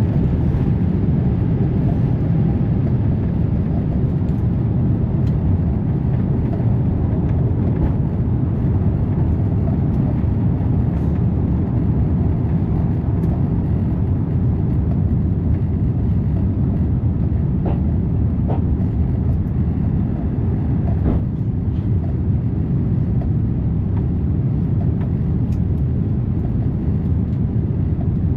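Steady low rumble inside a jet airliner's cabin from its engines and airflow, with a few faint clicks in the second half.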